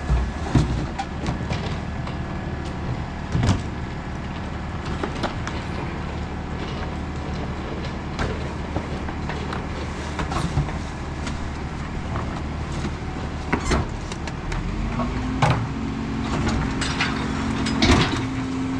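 Autocar ACX rear loader garbage truck's diesel engine running steadily, with scattered knocks and clatters. About 15 seconds in, the engine revs up and holds at a higher speed.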